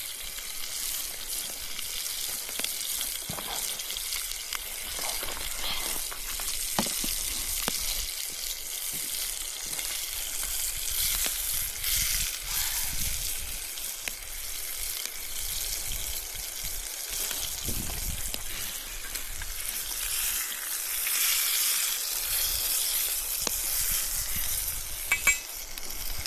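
Cubed beef searing in hot oil in a pan over campfire coals: a steady sizzle with scattered crackles and spits. The meat is being browned, not cooked through.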